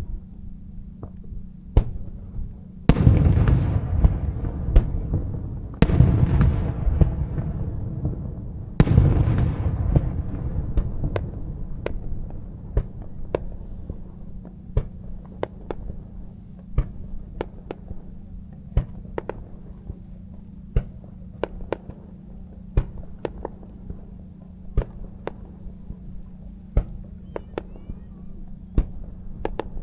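Aerial fireworks bursting: three loud shell bursts about three seconds apart, each trailing off in crackle, then a long run of sharp single reports about once a second. A steady low hum runs underneath.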